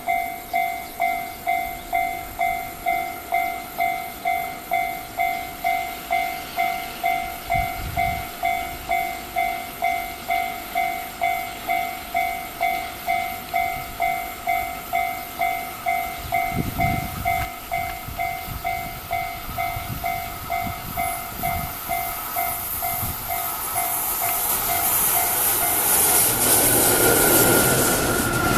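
Railroad crossing bell ringing in a steady two-tone pattern, about two strokes a second, as a freight train hauled by an EF66 electric locomotive approaches slowly. The train's rumble grows through the second half and becomes the loudest sound near the end, covering the bell.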